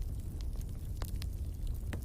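Wood fire in a fireplace burning with a steady low rumble and scattered sharp crackles, two of them louder, about a second in and near the end.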